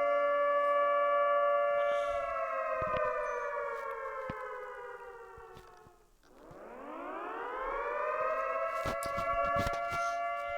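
Civil defense siren wail: a steady chord of tones winds down in pitch for about four seconds, nearly dies out, then winds back up to its full steady pitch. A few clicks come near the end.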